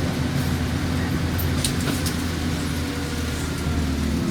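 Diesel engine of an Alexander Dennis Enviro200 bus running with a steady low hum, heard from inside the passenger cabin. A few faint light ticks or rattles come about a second and a half in.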